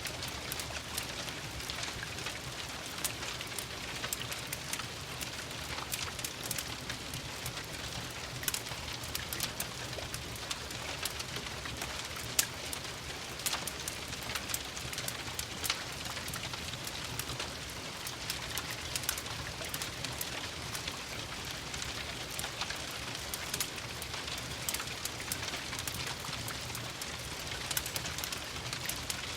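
Steady rain mixed with a fireplace crackling, with frequent small clicks and an occasional louder pop.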